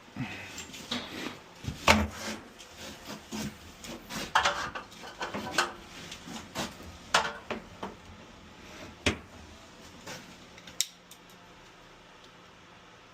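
Hard objects being handled and set down: an irregular run of clinks, knocks and rattles that thins out and stops about eleven seconds in.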